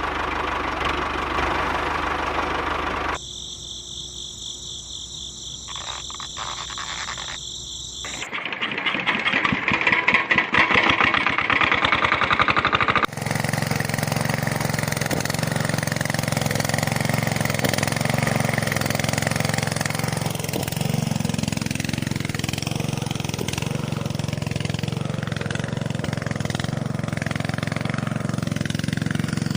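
A small motor running, heard in several short cut-together stretches that each sound different, with a fast buzzing rattle loudest in the middle. From about halfway through it runs steadily at an even pitch.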